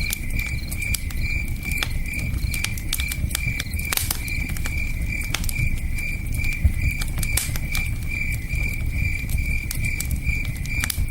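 Campfire crackling with irregular sharp pops and snaps, over the low steady rush of a river, while a cricket chirps in an even, quick rhythm.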